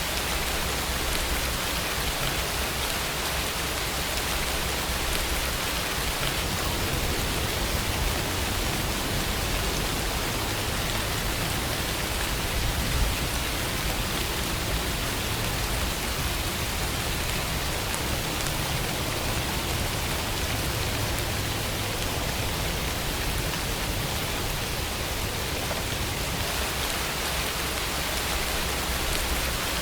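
Steady rainfall, a constant hiss of rain with a low rumble underneath and a single louder drop about 13 seconds in.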